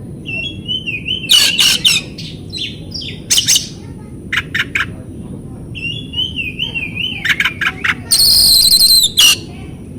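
Oriental magpie-robin (kacer) song from a lure recording: wavering warbled phrases, sharp chipping notes, and a loud harsh rasping call lasting about a second near the end.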